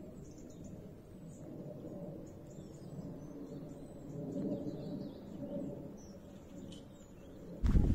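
Small birds chirping, with many short high calls, over a low steady rushing background; a much louder noise cuts in abruptly near the end.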